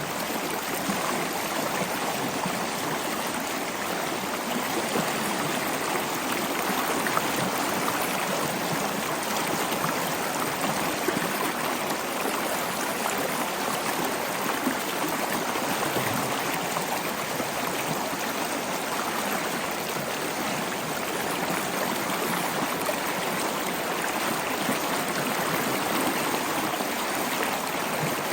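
Wood logs burning in a fireplace: a steady hiss of the flames with scattered small crackles.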